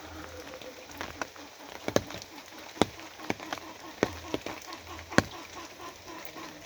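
Rain falling steadily, with large drops hitting a hard surface in sharp, irregular taps about once or twice a second.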